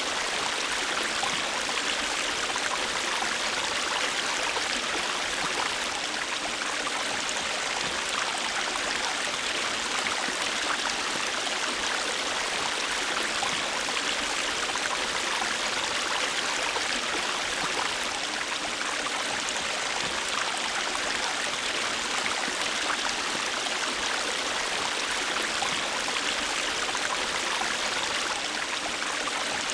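River water flowing over rocks, a steady rushing babble with fine splashing.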